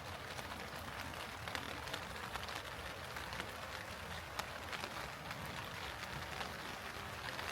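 Steady rain falling, an even hiss with many irregular close drop ticks.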